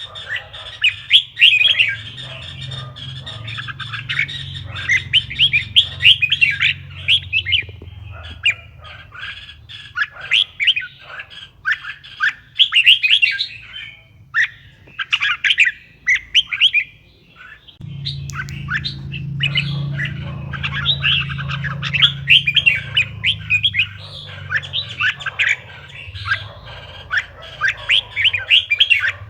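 Red-whiskered bulbul singing: a fast, continuous run of bright chirping and warbling phrases, with a few short gaps. A steady low hum sits underneath and grows louder about 18 seconds in.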